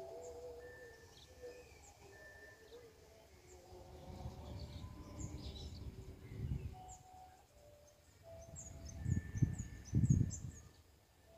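Small birds chirping and calling, with short whistled notes. A low rumble swells about halfway through and again, louder, near the end.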